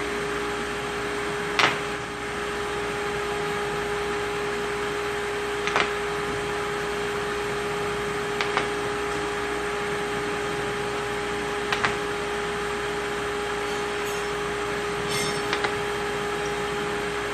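Steady background hum with a few light, sharp knocks of metal engine parts, such as the main bearing caps, being handled and set down.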